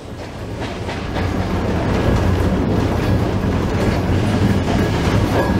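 Steam-hauled heritage train running, heard from an open carriage window: wheels clattering over the rails with a heavy rumble. The noise builds over the first couple of seconds, then holds steady.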